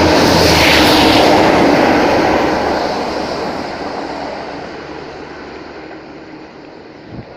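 Railhead treatment train passing through the station at speed, then running away into the distance. Loud at first, it fades steadily from about two seconds in.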